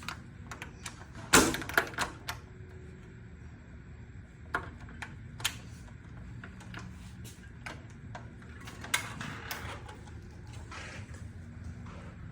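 A door being unlatched and opened: a quick cluster of clicks and knocks about a second and a half in, then a few single knocks.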